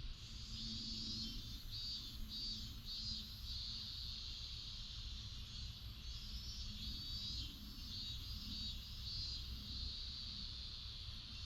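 Outdoor ambience of a steady, high-pitched insect chorus that pulses in places, over a low steady rumble.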